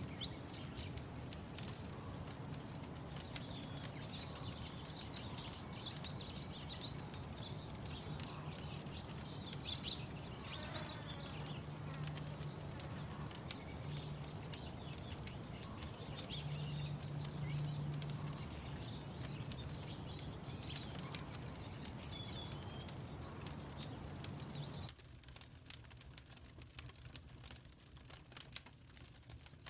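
Birds chirping over the crackle and scattered pops of a wood fire, with a steady low hum beneath. About 25 seconds in, the hum and chirps drop out abruptly, leaving the fire crackling on its own.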